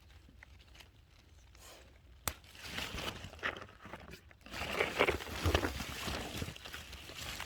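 Rustling, crinkling and crunching handling noise. It starts with a sharp click about two seconds in and is loudest a little past the middle.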